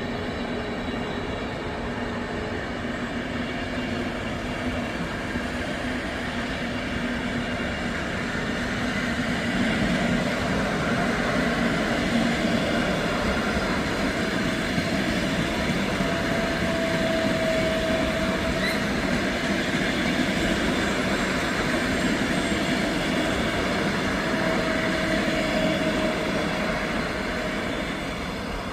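A train running past at a railway station: a steady rail rumble that grows louder about a third of the way in and eases off near the end, with two short squeals in the second half.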